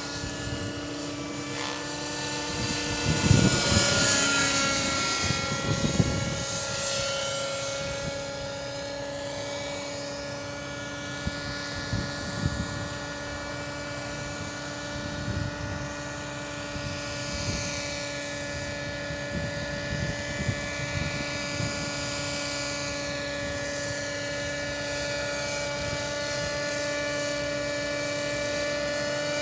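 JR Air Skipper 50 radio-controlled engine helicopter in flight: a steady high engine hum with rotor swish. It swells louder about three to six seconds in, then holds steady.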